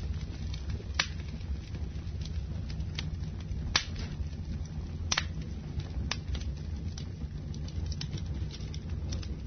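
Wood fire burning in a fireplace, crackling with scattered sharp pops, the loudest about a second in and again near four and five seconds, over a steady low rumble of the flames.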